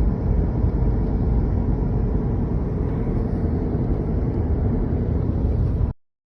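Vehicle driving down the road: a steady low rumble of engine and road noise, which cuts off abruptly near the end.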